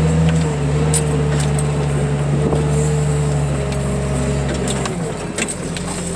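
Engine of a heavy lifting machine running steadily, with a whining tone above its hum and light metallic rattles and clanks scattered through; it eases off about five seconds in.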